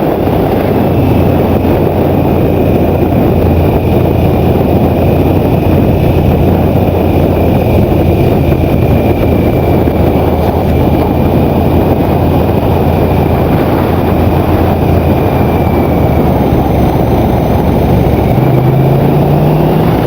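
Motorcycle riding along at steady speed, its engine running under heavy wind noise on the microphone; near the end the engine note rises as the revs climb.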